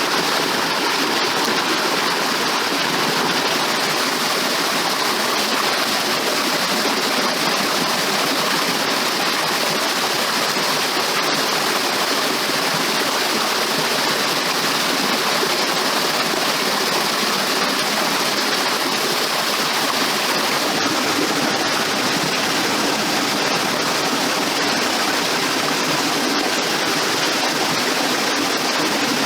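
Running water rushing steadily, an even hiss with no break.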